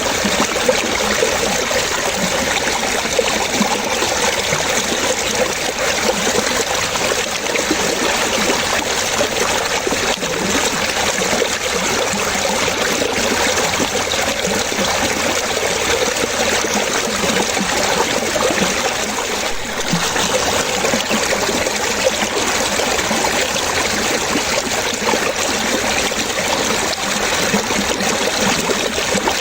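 Water trickling and splashing continuously, like a small stream, with a busy, even bubbling texture.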